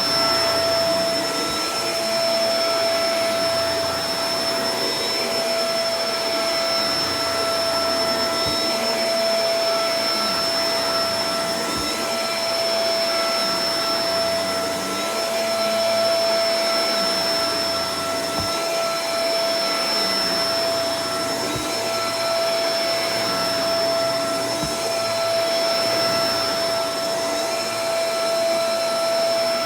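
Shark Professional Powered Lift-Away DLX (NV586) upright vacuum cleaner running steadily, its motor whine holding one pitch over the rush of air, with gentle slow swells in level and a few faint low knocks.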